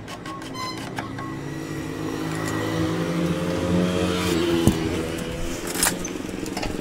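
Hero HF Deluxe motorcycle's single-cylinder engine revving up slowly, then dropping back to a steady idle about five seconds in, with a couple of sharp clicks.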